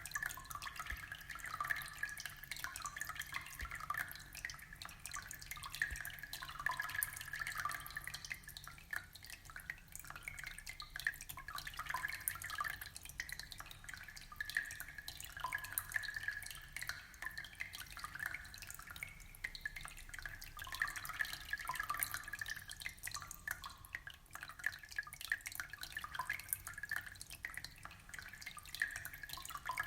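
Aquarium water trickling and dripping: a steady, dense patter of small splashes and bubbles.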